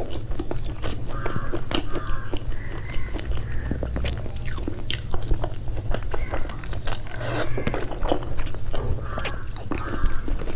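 Close-miked eating sounds: wet chewing and mouth clicks, with a bite into a piece of boiled chayote about six seconds in.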